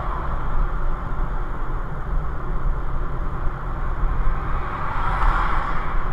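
Steady road noise of a car driving, tyre and engine rumble, with a swell of noise about five seconds in.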